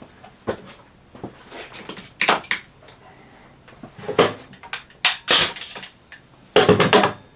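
Cut pieces of cedar fence picket being handled and set down on a workbench: a string of irregular wooden knocks and clatters, the loudest about five seconds in and again near the end.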